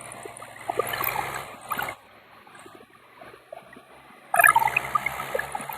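Tractor engines running under load during a tractor tug-of-war, a steady low hum under a noisy outdoor haze. It drops away for about two seconds in the middle and comes back louder near the end.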